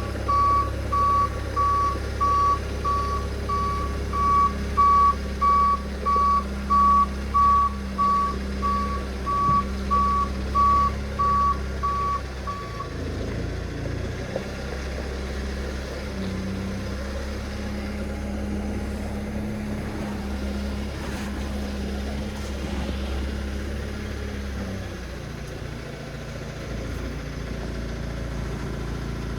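Large forklift backing up: its reversing alarm beeps evenly, a little faster than once a second, over the steady rumble of its engine, and stops about halfway through. The engine keeps running, rising in speed for several seconds before settling back.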